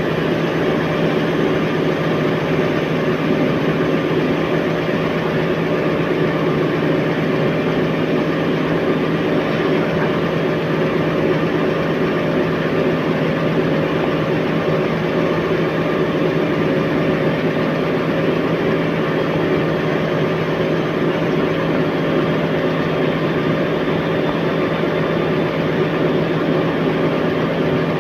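Fagor washing machine's drum motor, fed by a Delta MS300 variable frequency drive, running at a steady speed in the spin cycle: an even hum with several steady tones and no change in pitch.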